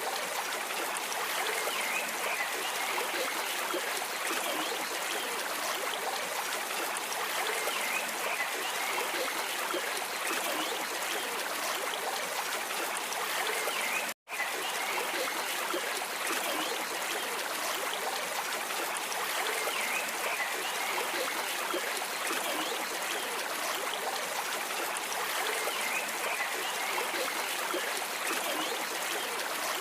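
Steady rushing and trickling of a flowing stream, which cuts out for an instant about halfway through.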